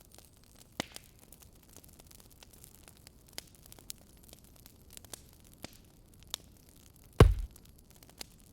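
Wood fire crackling: scattered sharp pops and snaps over a faint hiss. About seven seconds in comes a single much louder, deep thump.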